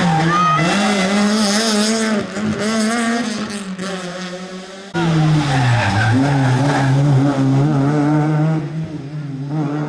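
Rally car engine running hard, its pitch rising and falling with throttle and gear changes. About halfway through, the sound cuts abruptly to another rally car's engine at full revs.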